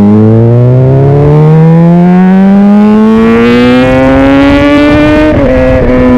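Honda CBR600RR's inline-four engine pulling hard under acceleration, its note climbing steadily for about five seconds, then dropping abruptly as the rider shifts up near the end.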